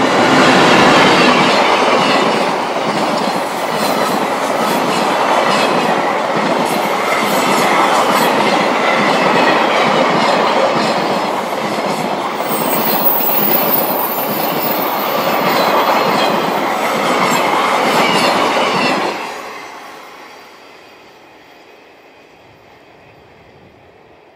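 A long freight train of container wagons rolling past at speed, the wheels clattering over the rail joints. A brief high squeal comes about halfway through. The noise drops away sharply after about 19 seconds as the last wagon clears, leaving a fading rumble.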